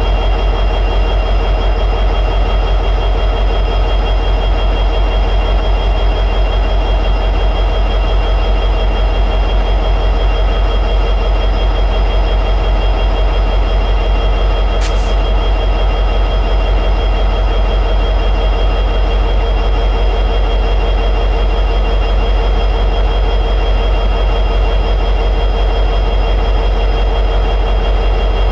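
EMD 16-710G3B two-stroke V16 diesel prime mover of an SD60E locomotive running steadily at high idle, a deep even rumble with a steady high whine above it. A single brief click sounds about halfway through.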